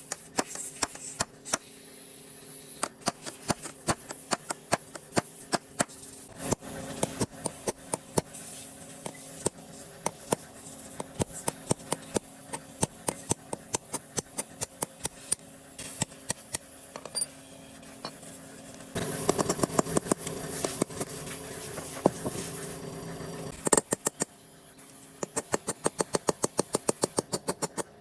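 Runs of sharp taps or clicks, about four a second, over a steady low hum, with a louder stretch of noise a little after two-thirds of the way through.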